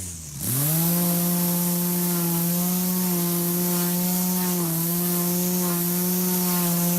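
An engine spins up over about half a second and then runs at a steady, high speed, with a constant buzzing note and strong hiss.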